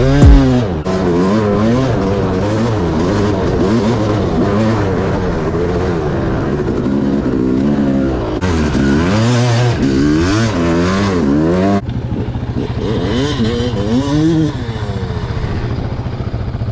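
Dirt bike engine revving up and down while being ridden, its pitch rising and falling with the throttle. About twelve seconds in the sound changes abruptly to a steadier, lower engine note.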